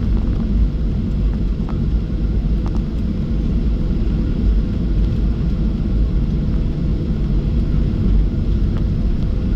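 Steady low rumble inside the cabin of a Boeing 737-700 on the ground, its CFM56-7B jet engines running near idle, with a few faint clicks.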